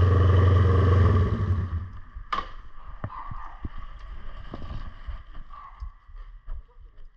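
1972 Honda CB450's parallel-twin engine idling, then switched off about a second in and dying away. Scattered clicks and light knocks follow, the sharpest about two seconds in.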